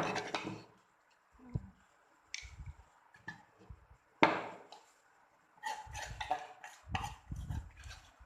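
Kitchen utensils and dishes being handled: scattered knocks, clinks and scrapes, the sharpest right at the start and about four seconds in, with a busier run of knocks near the end.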